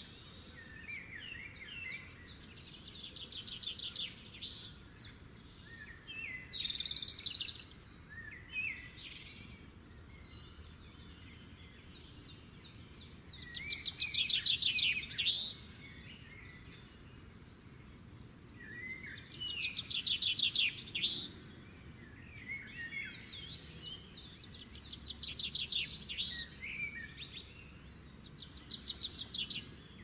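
Songbirds singing: a bird repeats loud, fast trilling phrases every few seconds, with other birds chirping between them, over a steady low background noise.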